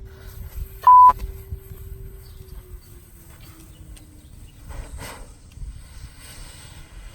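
A short, loud electronic beep at one steady pitch about a second in, over a low outdoor rumble and a faint steady hum that dips slightly in pitch and then comes back.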